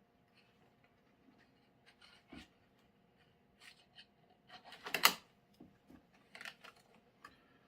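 Hands working zip ties on a furnace filter and box fan: scattered light clicks and rustles, with one louder short rasp about five seconds in, like a zip tie being pulled through its head.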